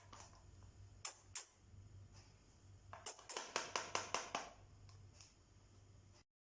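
Sharp clicks: two single ones about a second in, then a quick run of about eight at roughly six a second. The sound cuts out completely for a moment near the end.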